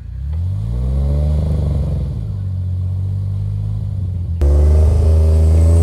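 Jeep engine revving up and then holding a steady pitch. About four seconds in, the sound cuts abruptly to a louder, steady engine drone.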